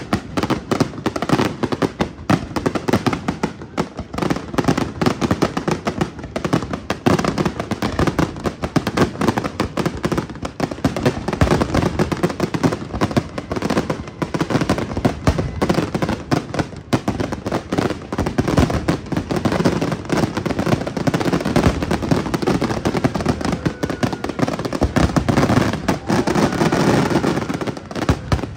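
Fireworks display: a dense, continuous barrage of aerial shell bursts and rapid crackling reports, many going off at once, that cuts off abruptly at the very end.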